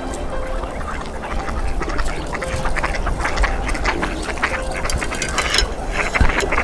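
A gathered flock of waterfowl, mallards and Canada geese, calling: many short quacks and calls overlapping without a break.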